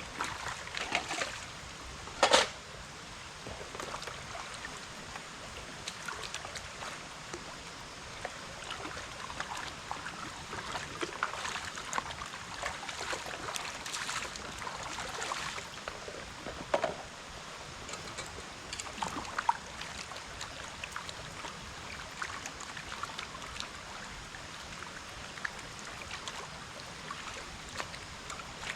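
Running or trickling water with scattered small splashes and clicks, and one sharp knock about two seconds in.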